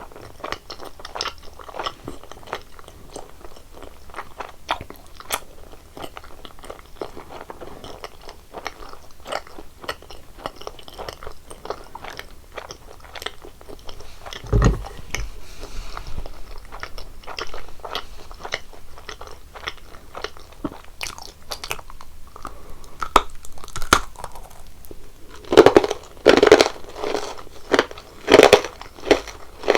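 Close-miked chewing and biting of sweets: a dense run of small crunches and wet clicks, with a few louder bites near the end.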